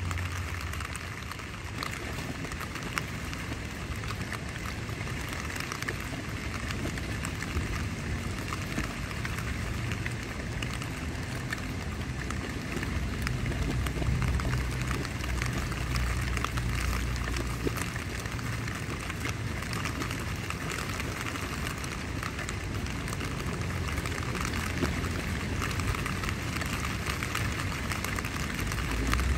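Steady rain pattering on tent fabric, dense with small drop ticks, with low gusts of wind swelling under it about halfway through and again near the end.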